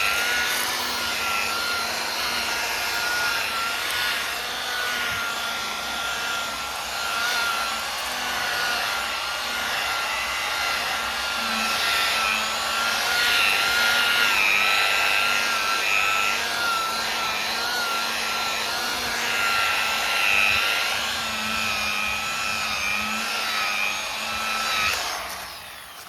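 Electric machine polisher buffing car paintwork. Its motor whine runs steadily, wavering slightly in pitch as it is worked over the panel, and it stops about a second before the end.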